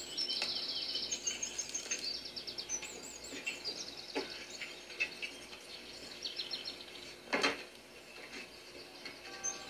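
Small birds chirping and trilling in quick repeated phrases over a faint outdoor background, with a single thump about seven seconds in.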